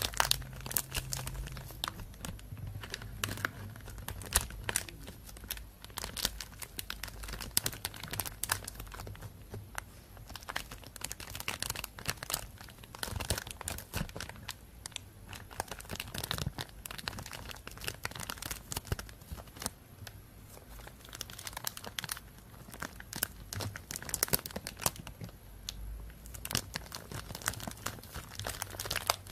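Thin plastic bag crinkling and crackling as it is handled close to the microphone, a continuous run of irregular sharp crackles.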